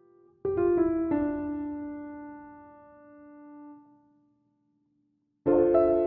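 Background piano music: a few notes struck in quick succession about half a second in ring out and fade away, then after a second of dead silence a new phrase of notes begins near the end.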